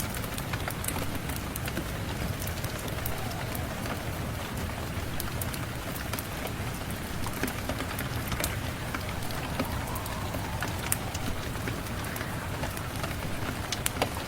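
Rain and wood-fire ambience: a steady, even rush of rain with many small, sharp ticks and crackles scattered through it.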